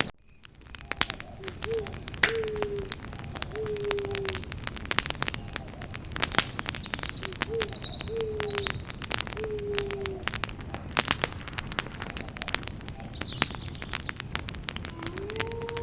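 Wood campfire crackling with many sharp pops and snaps. Over it come two runs of three or four short, low, falling calls from a bird, and one long held low note near the end.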